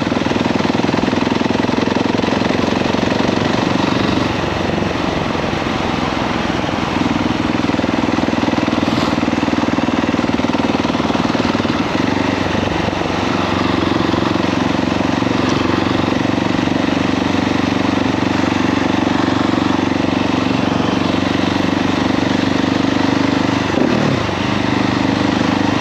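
KTM 690 SMC R A2's single-cylinder engine running under way, with wind rushing over the microphone. The engine note shifts a few times, with a short dip and rise about 24 seconds in.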